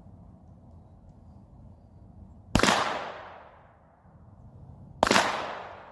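Two shots from a .22 pistol, about two and a half seconds apart, each followed by an echo that dies away over about a second.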